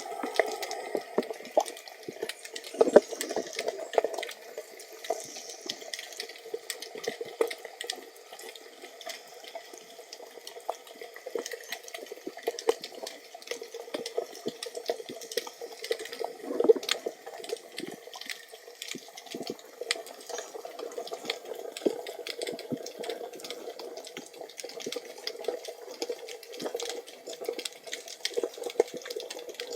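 Water sounds on a submerged camera: a steady wash of moving water with many small sharp clicks and crackles throughout.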